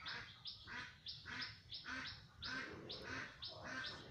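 Birds chirping faintly in a quick run of short repeated calls, about three to four a second.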